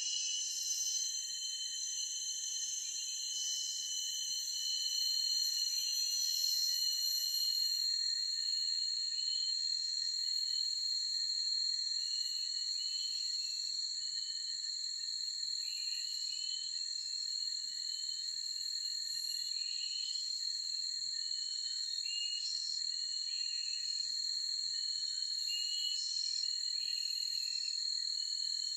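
Forest insects keeping up a steady high-pitched drone on several pitches, with small birds giving short chirps, repeated in little runs, over it.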